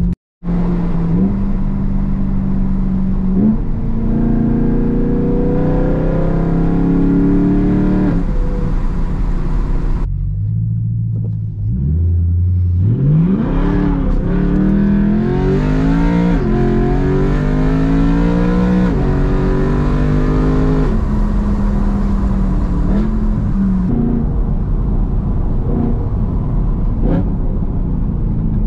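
BMW E92 M3's 4.0-litre V8 with a loud exhaust, accelerating through the gears: the pitch climbs and drops back at each shift. About ten seconds in it falls to a low idle-like hum for a couple of seconds, then revs up through two more gears and settles into a steady cruise.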